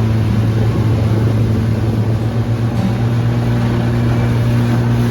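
Outboard motor on a small aluminium boat running steadily under way: a constant low engine note over a rushing haze of water and wind noise.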